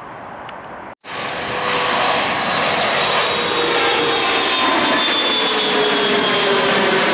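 Faint background hiss, then, after a sudden cut about a second in, the loud steady noise of a jet airliner's engines passing close by. Whining engine tones slide slowly down in pitch.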